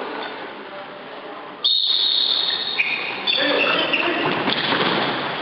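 A referee's whistle blows sharply about a second and a half in and holds a shrill tone for a couple of seconds over the noise of an indoor sports hall, with players' shouts around it.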